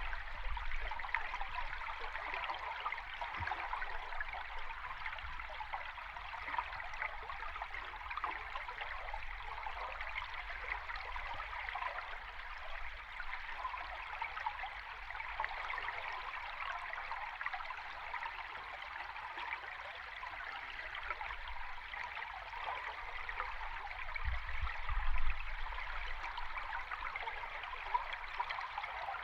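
River stream recorded underwater: a steady, dense rush of fine bubbling and trickling water, with a brief low rumble near the end.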